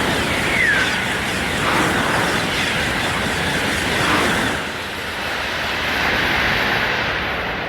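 A TGV high-speed train passing through the station at speed: a loud, continuous rush of air and wheel noise, with a brief falling tone about half a second in. The hiss thins out at about four and a half seconds as the train goes by.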